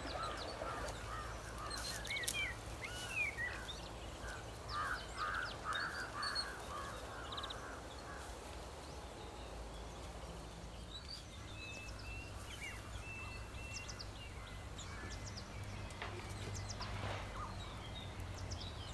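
Birds calling and chirping, with a run of repeated harsher calls about five seconds in, over a steady low hum.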